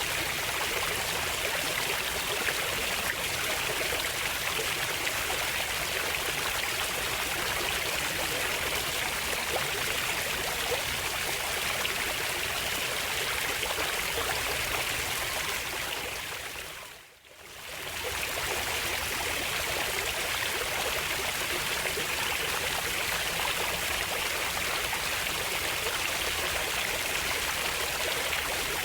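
Running stream water flowing steadily, fading out briefly and back in about two thirds of the way through.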